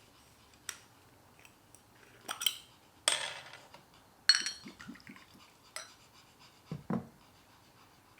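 Dishes and utensils knocking and clinking, about half a dozen separate strikes. One clink about four seconds in rings briefly.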